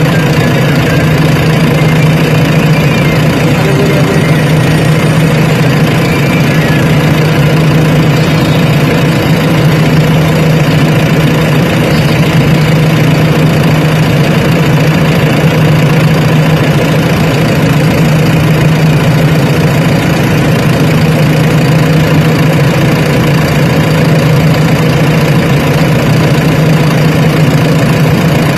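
Diesel engine of heavy loading machinery idling loud and steady, with a constant low hum and no revving.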